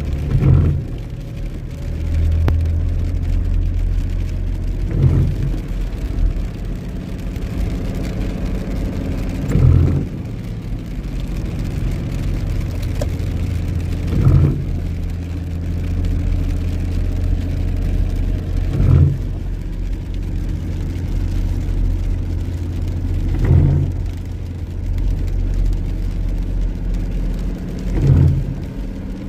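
Steady car engine and road hum inside the cabin, with windscreen wipers on intermittent, sweeping once about every four and a half seconds, seven times.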